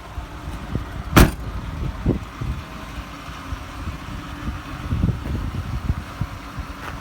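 Ford 6.8-litre Triton V10 of a 2006 F-450 idling with a steady low rumble. A single sharp knock comes about a second in, and a few fainter knocks follow.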